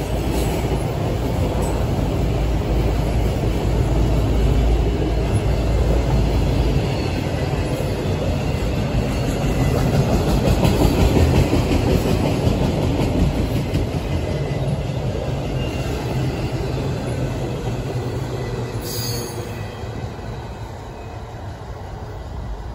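A train rolling past on the rails: a steady rumble of wheels and cars that grows quieter in the last few seconds.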